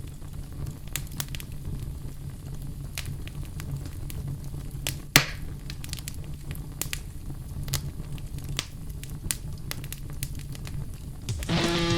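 Campfire crackling, with scattered sharp pops over a low steady rumble and one loud pop about five seconds in.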